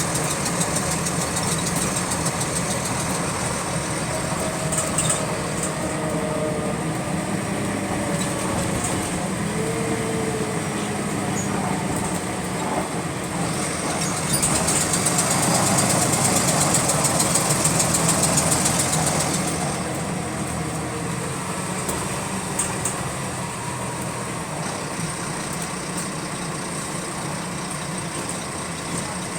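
Bus diesel engine running with a repetitive clicking that keeps time with the engine speed. It grows louder for about five seconds around the middle, then settles back.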